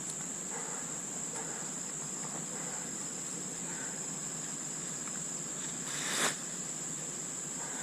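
Crickets trilling in a steady, high, unbroken tone. A short, louder rustling noise comes about six seconds in.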